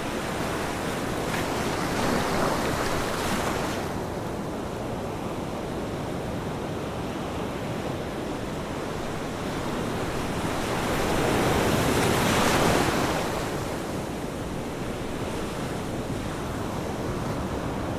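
Ocean surf with a steady wash. Two waves break louder, one a couple of seconds in and one just past the middle.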